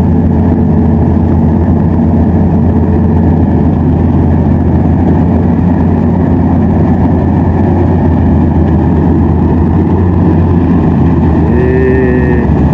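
Rice combine harvester's engine running at a steady pitch while it harvests.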